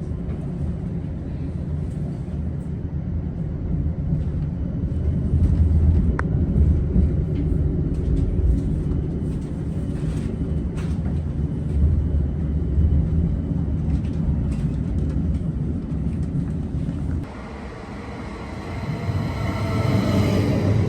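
Electric commuter train running on the rails, a steady low rumble that drops away about 17 seconds in, then a whine of several tones from the drive sets in near the end.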